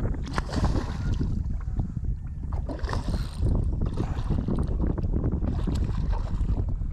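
Wind buffeting the microphone in a steady low rumble, with water slapping and splashing against a small skiff's hull and many short sharp clicks and splashes throughout.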